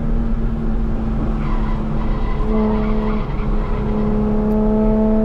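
BMW E46 M3's S54 straight-six heard from inside the cabin at speed on track. The revs hold fairly steady, then climb slowly from about halfway through as the car accelerates. The tyres squeal faintly in the middle.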